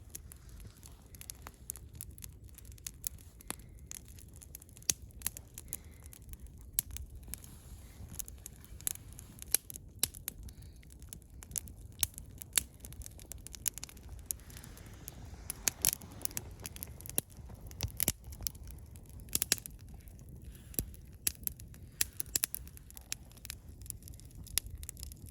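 Wood campfire crackling: the burning wood gives sharp, irregular pops and snaps, several a second, over a low steady rumble.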